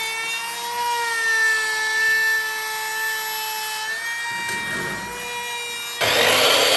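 Electric power tool motor running with a steady whine. About six seconds in, a louder rushing sound begins as it bites into wood.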